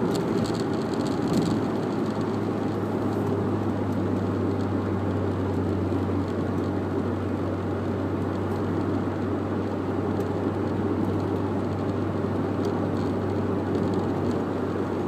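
Audi TT 1.8 turbo four-cylinder (180 hp) engine running at a steady speed, with an even low hum that does not rise or fall.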